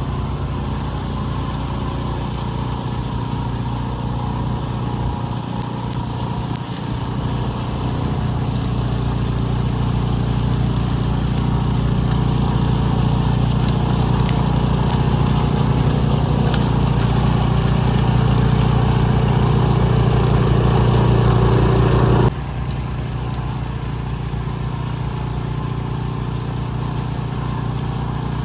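Benchmark 30-inch tracked snowblower's 420cc single-cylinder engine running steadily while clearing snow. About two-thirds of the way through, the sound drops suddenly to a lower level.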